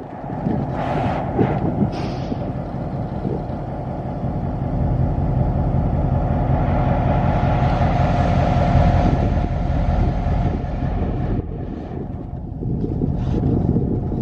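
A train running by: a steady rumble of wheels on rail with a faint whine. It builds to its loudest about halfway through and eases near the end.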